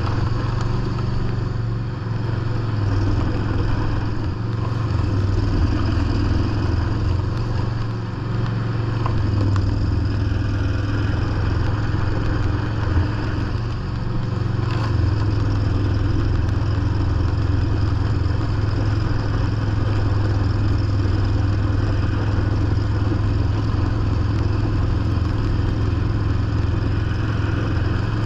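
John Deere lawn tractor engine running steadily under load while driving a 44-inch snowblower through heavy, compacted snow, with a few brief dips in level and one short clack about midway.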